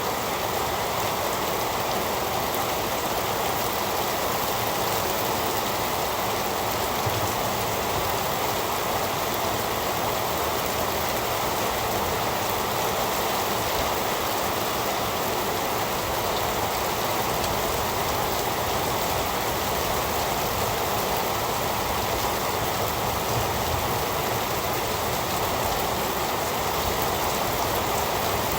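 Heavy rain falling steadily, an even hiss of rain on a surface.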